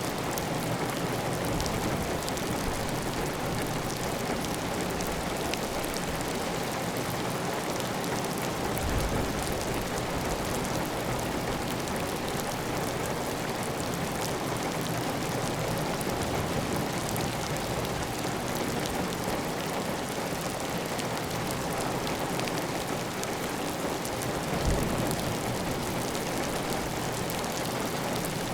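Steady heavy rain on a clay tile roof, with water running off the roof edge, making an even, dense hiss. Two brief low thumps stand out, one about nine seconds in and a louder one near the end.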